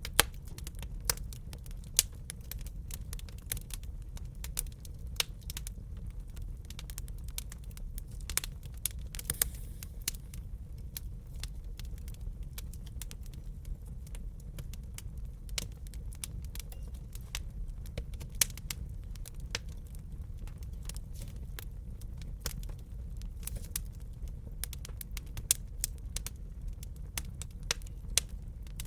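Wood fire crackling in a fireplace: irregular sharp pops and snaps, several a second and a few louder ones, over a steady low rumble.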